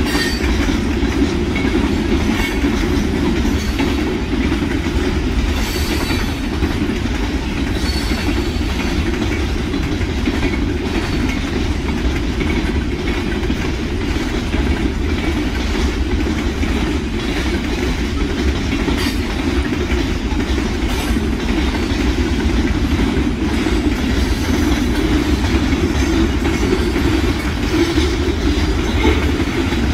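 Freight train cars rolling past at steady speed: a continuous loud rumble of steel wheels on rail, with scattered clicks as the wheels cross rail joints.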